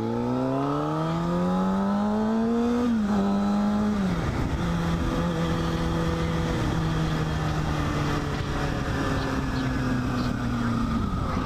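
Kawasaki Ninja ZX-6R's inline-four engine accelerating, its pitch climbing for about three seconds, then dropping with an upshift and running at a steadier, slowly falling speed. A steady rush of wind and road noise runs underneath.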